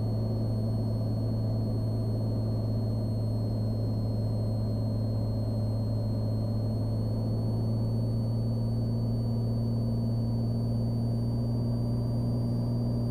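Cessna 182 Skylane's piston engine and propeller droning steadily in level flight, with a faint high steady whine above the drone.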